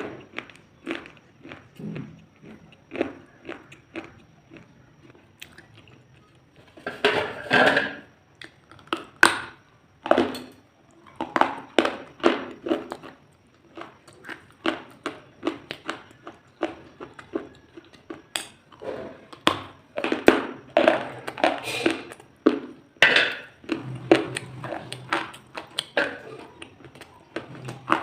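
Close-miked crunching as crisp food is bitten and chewed: a fast, irregular run of short crunches, with longer, louder bouts of crunching about a quarter of the way in and again past the middle.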